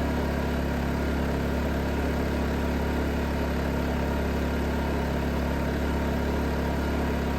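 Predator 2500 inverter generator's small single-cylinder four-stroke engine running steadily with an even hum, freshly started and not yet under load; super quiet.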